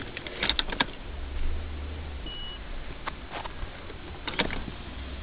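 Car engine idling as a low steady rumble inside the cabin, with a few scattered clicks and knocks and one short high beep about two and a half seconds in.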